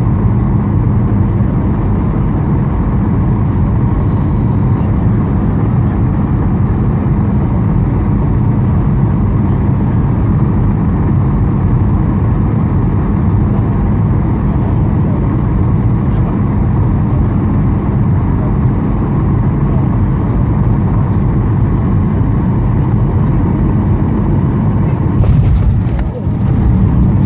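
Steady drone of engine and airflow in the cabin of a Boeing 737-800 in flight, with a brief disturbance about 25 seconds in.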